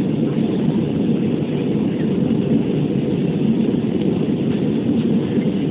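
Steady cabin noise inside an Airbus A320 climbing after takeoff: engine and airflow noise heard as an even low rumble, with no distinct tones or changes.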